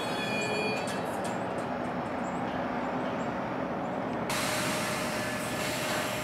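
NJ Transit commuter train, hauled by a PL42AC diesel locomotive, standing at the platform just after arriving: a steady rumble from the idling train. A faint wheel squeal dies away in the first moment, and a brighter hiss comes in about four seconds in.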